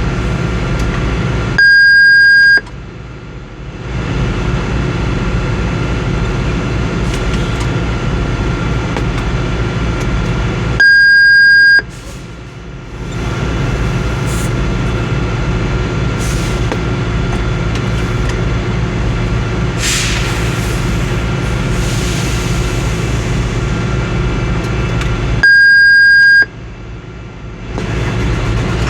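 Ottawa shunt truck's engine running steadily, with a loud, steady, high-pitched beep sounding three times, each about a second long, as a warning tone.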